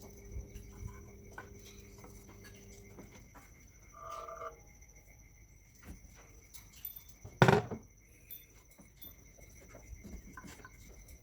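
Hand-tool work on the serpentine belt tensioner with a square-drive extension: scattered small clicks, a short squeak about four seconds in, and one loud sharp clunk about seven and a half seconds in.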